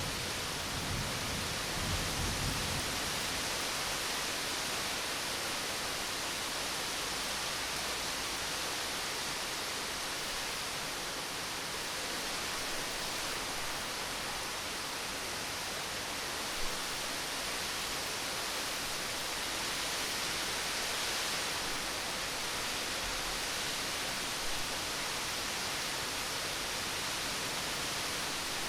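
Steady rain falling as an even hiss, with the last low rumble of thunder dying away in the first few seconds. A couple of single drops tick on something later on.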